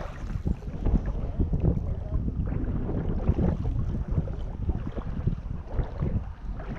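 Wind buffeting the microphone over the sound of water around a kayak: a continuous uneven rumble, strongest in the lows.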